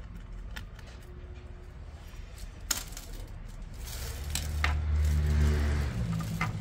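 Small clicks and metallic clinks of laptop parts and tools being handled during disassembly, one sharp click standing out a little before halfway. A louder low drone runs for about two seconds in the second half.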